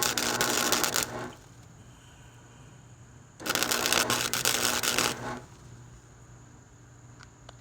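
Electric arc welder putting tack welds on a steel mower deck: two bursts of arc crackle, each about two seconds long. The first ends about a second in and the second starts near the middle.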